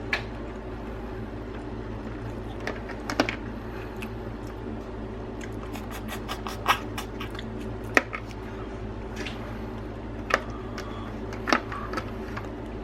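Crab shells being cracked and pulled apart by hand: scattered sharp cracks and snaps, about six of them standing out, over a steady low background hum.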